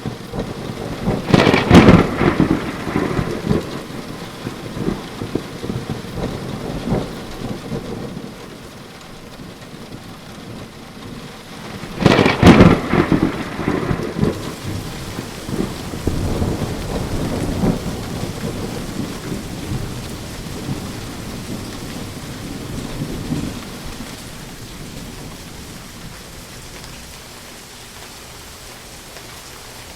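Steady rain during a thunderstorm, with two loud thunderclaps, one about a second and a half in and another about twelve seconds in, each followed by rumbling that dies away over several seconds. Only the rain is left near the end.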